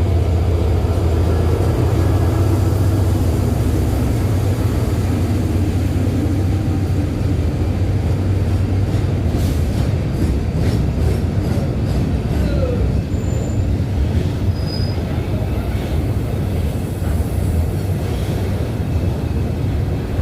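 State Railway of Thailand diesel train running past, with a loud steady low rumble and a run of sharp clacks from the wheels about halfway through.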